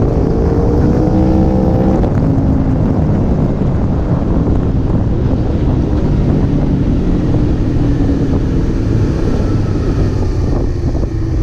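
2014 Aprilia RSV4 APRC's V4 engine running under way, heard from the tank with wind noise on the microphone. Its revs climb over the first two seconds, then it runs lower and steadier.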